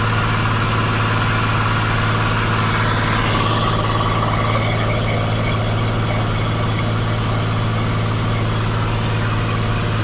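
Cessna 182 Skylane's piston engine and propeller running steadily in flight, a constant low drone.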